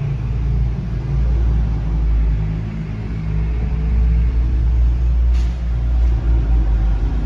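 Car driving along: a steady low engine drone with road rumble.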